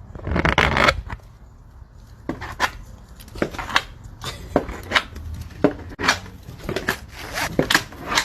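Irregular knocks, taps and scrapes, with a louder burst of rustling about half a second in.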